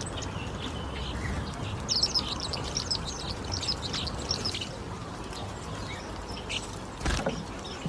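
Small aviary birds chirping, with a quick run of high, rapid chirps about two to five seconds in over a steady low hum. A single sharp knock comes near the end.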